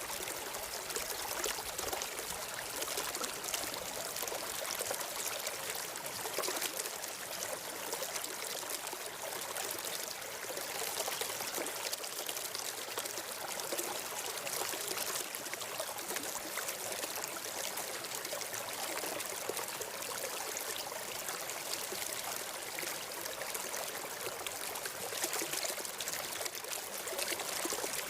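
Steady flowing water of a stream, an even trickling rush.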